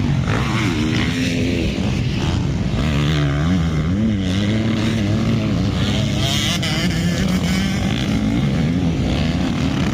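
Several motocross bikes' engines revving on the track, overlapping, their pitch rising and falling again and again with throttle and gear changes.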